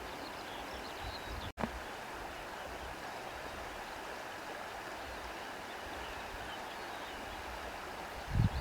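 Steady rushing wind with faint bird chirps now and then. The sound cuts out for an instant about a second and a half in, and a short low thump comes near the end.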